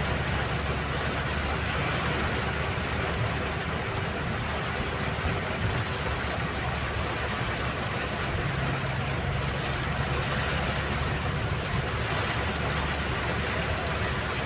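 A car driving in heavy rain: a steady hiss of rain and tyres on the wet road over a low engine hum.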